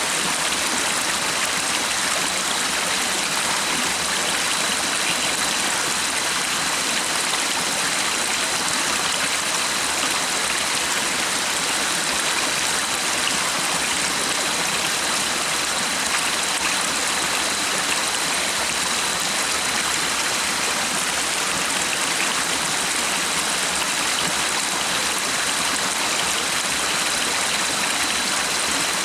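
A stream of water flowing steadily, an even unbroken rushing. A faint steady high tone runs under it.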